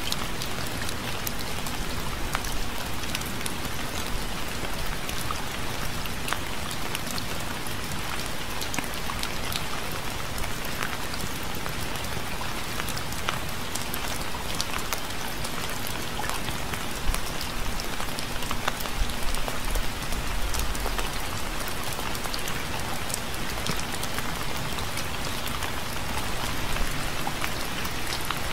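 Steady rain falling on a hard surface, a dense even hiss with many separate drop hits ticking through it.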